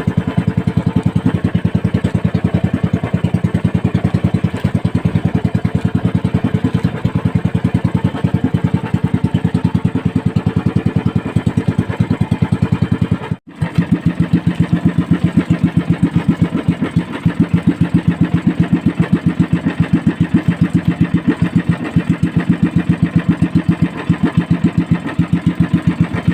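Small outrigger fishing boat's single engine running steadily at trolling speed, an even rapid beat of engine pulses. It drops out for a split second about halfway, then carries on the same.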